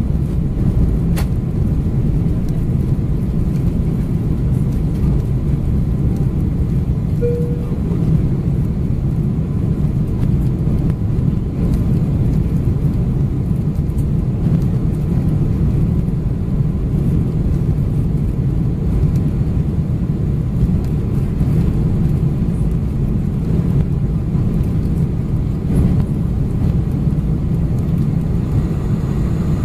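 Boeing 747-400 cabin noise: a steady, loud rumble of engines and airflow heard from inside the passenger cabin. A brief single tone sounds about seven seconds in.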